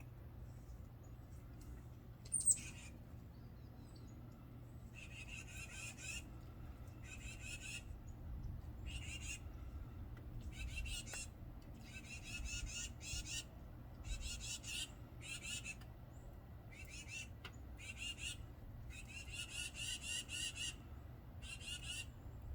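Birds at a snowy feeding spot calling: one sharp falling call about two seconds in, then repeated bouts of rapid, high, squawky calls, each lasting about a second, coming every second or two.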